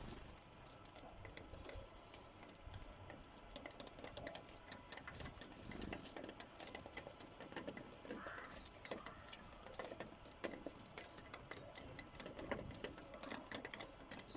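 Sparrows pecking seed at a bird feeder: quick, irregular tapping of beaks on the feeder.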